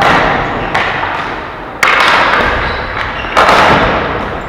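Ball hockey play: four sharp knocks, each fading with a long echo in a large hall, as the ball, sticks or players strike the rink boards.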